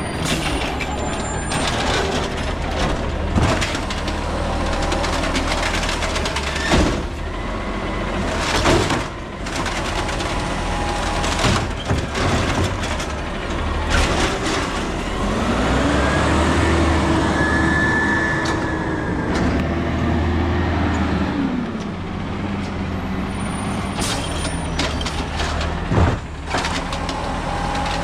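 Peterbilt 320 garbage truck with an Amrep Elliptical automated side-loader running at a collection stop, its diesel engine running steadily with repeated loud bangs from carts being slammed. About halfway through, the engine revs up and back down over roughly six seconds.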